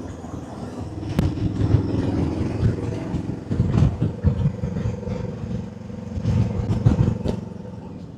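Motorcycle engine running at a steady road speed, with uneven wind rush and a few sharp knocks.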